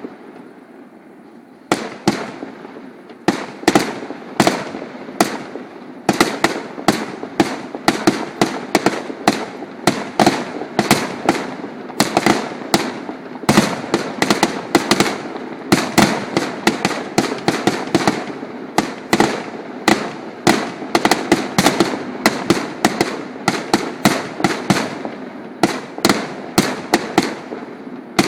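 Fireworks exploding in a dense, rapid barrage of bangs with a rumble between them, sparse at first and near continuous from a few seconds in.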